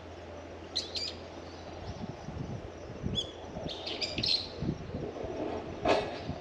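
Small birds chirping in a few short bursts of high calls, with one brief, louder sharp sound near the end.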